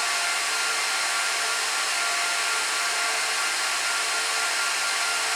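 Cooling fans of a running Gigabyte R180-F34 1U rack server, a steady whir with a faint whine in it.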